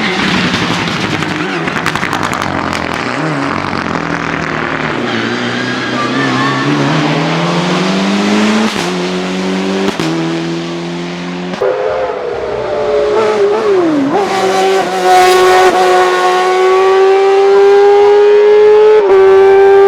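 Hillclimb race car engine accelerating hard, its pitch climbing and dropping sharply at several gear changes, then held at high revs and getting louder as the car comes closer.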